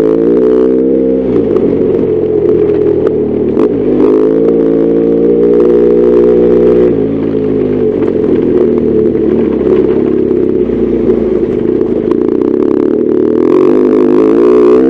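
BMW R1200GS Adventure's boxer-twin engine under way, pulling up in pitch and dropping back at shifts or throttle-offs about a second in and about seven seconds in, then rising again near the end.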